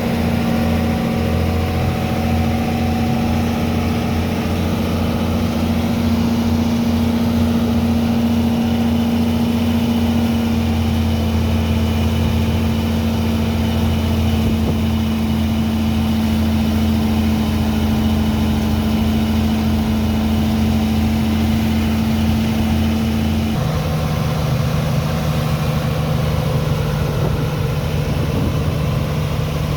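Heavy engine of a sand-unloading dredger pump running steadily with a loud, even drone. Near the end the drone drops suddenly to a lower steady hum.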